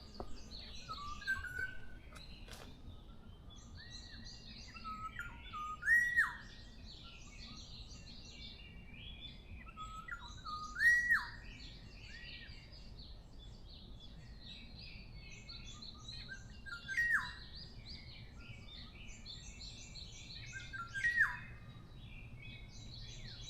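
Woodland birds singing in a dawn chorus. One nearby bird repeats a loud phrase of looping whistled notes about every five seconds, over a constant background of many small, higher chirps from other birds.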